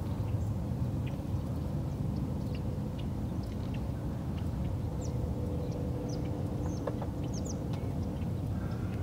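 Small birds chirping, short high chirps now and then that come in quick runs about five to eight seconds in, over a steady low rumble with a faint hum.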